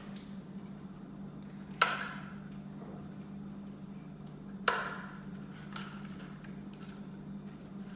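Two sharp clacks about three seconds apart, each with a short ring: a handheld one-hole punch snapping through a cardboard tissue roll. A steady low hum runs underneath.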